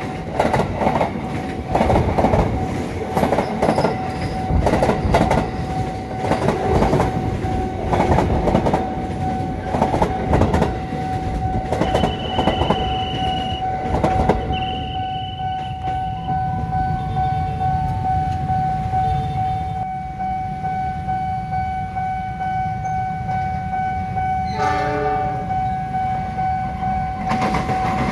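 Commuter electric train's wheels clattering rhythmically over the rail joints and crossing as it passes close by, over a steady warning tone from the level crossing. In the second half a diesel locomotive's engine runs with a low steady rumble, and near the end it gives a short horn blast.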